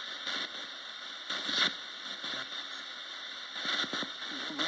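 Roberts radio used as a ghost box: a steady static hiss broken every second or two by brief louder bursts of sound.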